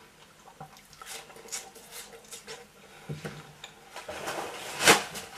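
Soft wet chewing and small mouth clicks from eating watermelon, scattered, with a louder breathy noise near the end.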